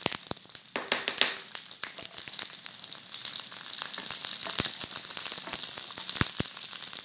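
Whole slit green chillies sizzling in hot oil in a non-stick frying pan, a steady high hiss, while a wooden spatula stirs them through the oil; scattered sharp pops and taps stand out, several in the first second and a couple more about six seconds in.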